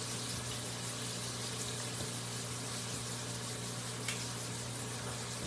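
Chicken livers frying in grease in an electric skillet: a steady sizzle, over a low steady hum, with one faint click about four seconds in.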